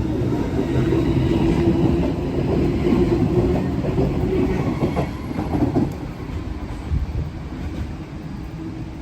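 A train running along the track at the station, its wheels clattering over rail joints, loud at first and fading away after about six seconds.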